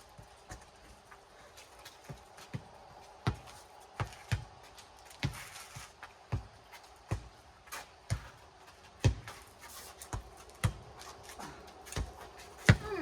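A rubber four square ball bouncing on pavement and being hit between players: sharp single thumps, roughly one a second.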